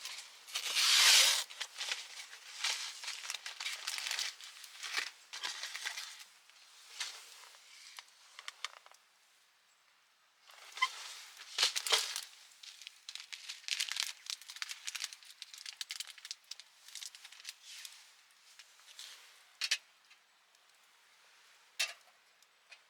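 Plastic packaging crinkling and rustling as it is handled and torn open, in irregular bursts, loudest about a second in, with a brief lull around nine to ten seconds.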